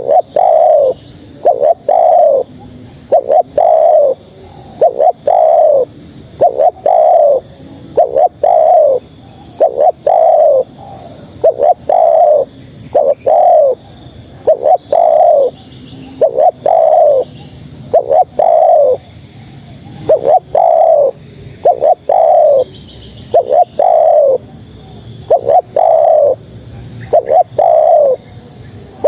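Spotted dove cooing over and over: short, mellow notes that dip at the end, given in quick runs of two or three, the call sold as a female's call to draw in males.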